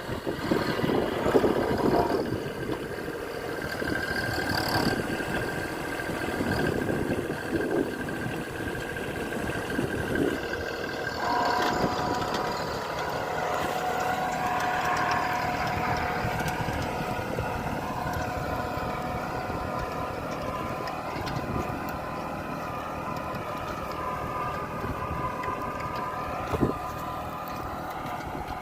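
A vehicle engine running steadily, with a whine that sets in about eleven seconds in.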